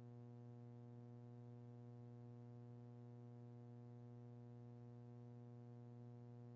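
Near silence with a steady low electrical hum, an even buzz that does not change.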